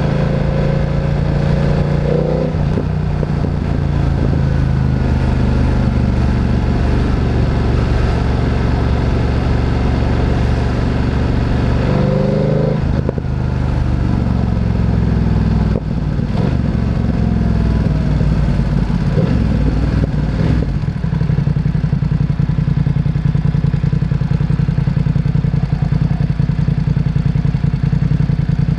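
Motorcycle engine running loud and steady, its pitch shifting several times with throttle and gear changes. In the last third it settles into a steady lower, even note.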